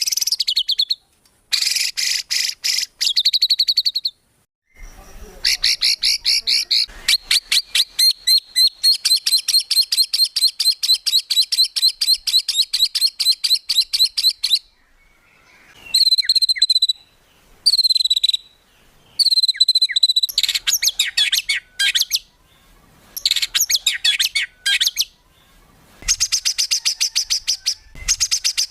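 Songbird song made up of strings of rapid, sharp repeated notes and trills (the 'tembakan' shot phrases), in separate bursts with short gaps. The longest is a continuous rapid run of about ten seconds.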